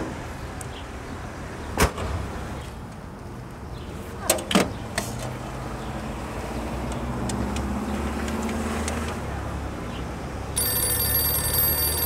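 Sharp knocks about two seconds in and twice more around four and a half seconds, then a passing car's rumble swells and fades. Near the end, a payphone starts ringing, an electronic ring about two seconds long, as the caller rings back.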